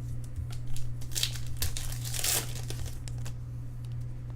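Crinkling and rustling of a trading-card pack wrapper and cards being handled, loudest in two short bursts about one and two seconds in.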